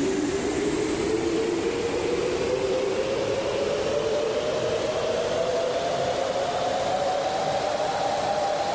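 GE9X high-bypass turbofan engine spooling up during its start: a steady whine rising slowly in pitch, with a thinner high whine climbing alongside it over a steady rush of air.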